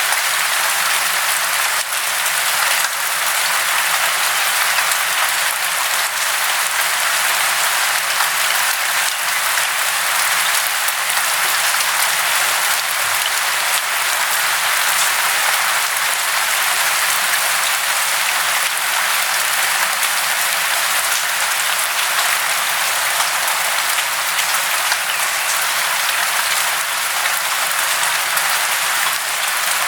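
Steady, dense hiss of falling water, unchanging throughout.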